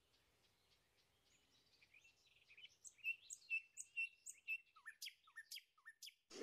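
Songbirds chirping: a string of short, high chirps and whistles, faint at first and louder from about halfway, with a few quick falling notes near the end.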